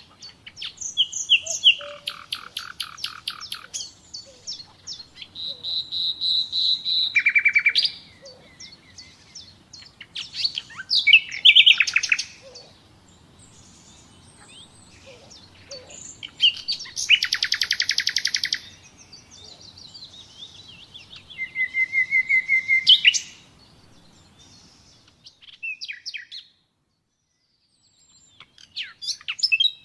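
Common nightingale singing: separate phrases of rapid repeated notes, fast trills and clear whistles, some rising, with short pauses between them and a silent gap a few seconds before the end.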